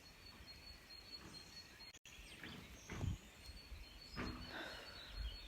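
Faint outdoor background, with a thin steady high tone and a few soft, short sounds about three and four seconds in.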